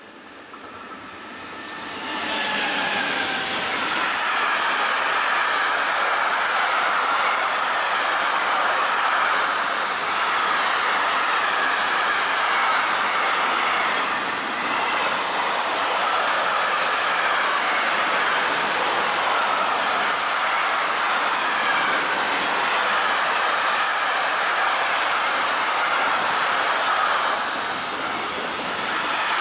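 A train passing close by: the noise builds over the first two seconds with a faint falling whine, then holds steady as the wagons roll past with wheels clattering on the rails.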